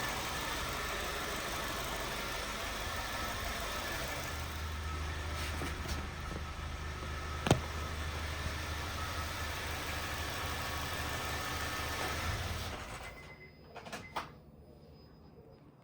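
Honda Fit's four-cylinder engine idling steadily with a low rumble, which the owner fears may be rod knock. There is a single sharp click about halfway through. The engine sound drops away near the end, leaving only a few faint clicks.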